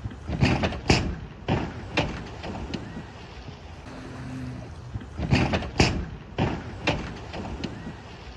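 A quick cluster of loud thuds and crashes, then two more single knocks; the same sequence is heard again about five seconds later.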